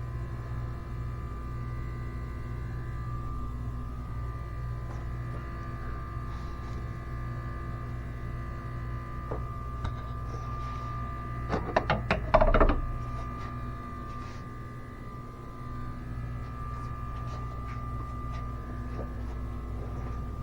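Steady hum of an EVAP smoke machine's pump running, pushing smoke into the fuel vapour system during a leak test. A brief cluster of knocks and clatter comes about twelve seconds in.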